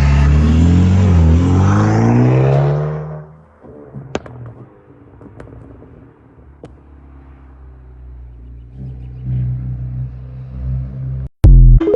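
BMW N20 2.0-litre turbocharged four-cylinder fitted with an aftermarket intake, revved with its pitch rising and falling for about three seconds, then settling to a steady idle. A brief loud burst comes just before the end.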